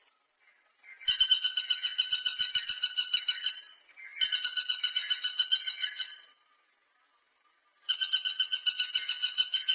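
Woodpecker giving a rapid chattering call in three runs of about two seconds each, pulsing about eight times a second at a high, even pitch.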